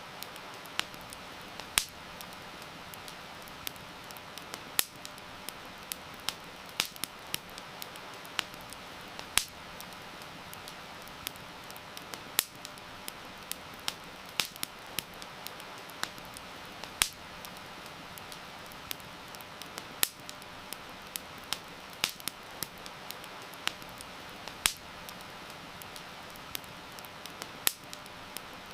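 Wood fire crackling, with sharp pops at irregular intervals, several a second, over a steady hiss of heavy rain.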